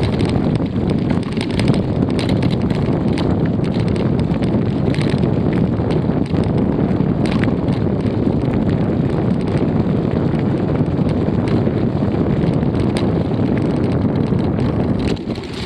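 Steady wind rumble buffeting the microphone of a camera riding on a moving bicycle, with scattered small ticks and rattles from the ride.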